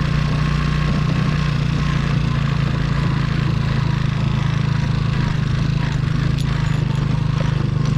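Motorcycle engine running steadily at an even, unchanging speed, with a few faint clicks near the end.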